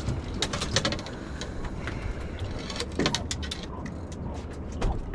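Scattered sharp clicks and light knocks of people shifting about and handling fishing gear in a small boat, in a few short clusters over a steady low rumble.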